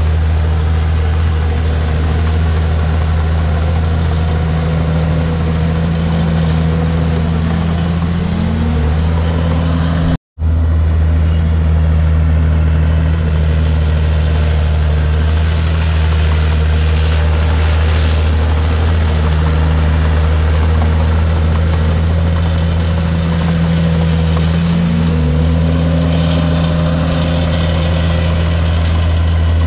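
Komatsu D51PX bulldozer's diesel engine running steadily, its pitch dipping and recovering a couple of times as it takes load. The sound drops out for a split second about ten seconds in.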